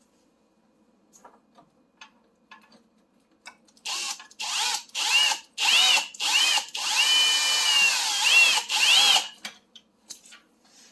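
Power drill driving screws, run in about six short trigger bursts and then one longer run of nearly two seconds, its motor whine rising and falling in pitch with each pull. A few faint clicks come before it.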